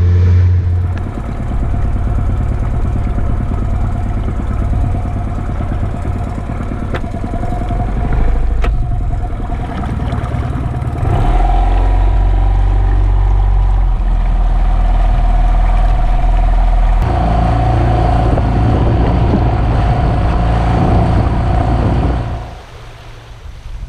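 A boat's motor running steadily at a low pitch. Its note shifts about halfway through and again a few seconds later, and it falls away near the end.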